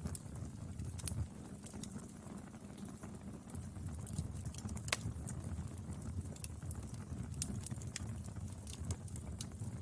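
Wood fire burning: a steady low rumble of the flames with irregular sharp crackles and pops from the burning wood, one louder pop a little before halfway.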